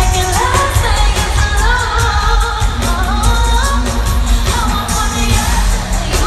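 Live pop concert music heard loud from the front row: a heavy bass beat with regular drum hits under a woman's voice singing sliding melodic runs.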